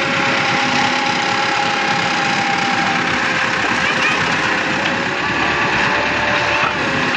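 Tractor engine running steadily, with a couple of steady tones over a dense, even noise.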